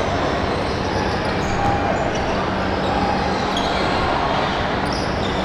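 Basketball bouncing on a hardwood court during a game, over a steady din of gym noise.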